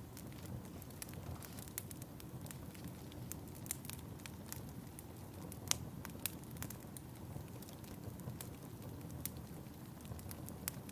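Wood fire burning in a fireplace: a steady low rumble of flames with frequent irregular crackles and pops, the sharpest pop about six seconds in.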